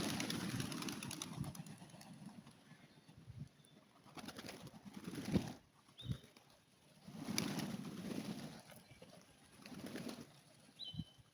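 A flock of rock pigeons cooing in low rumbling bouts of about a second each, with wing flaps fading out over the first two seconds. There are two short high chirps, one in the middle and one near the end.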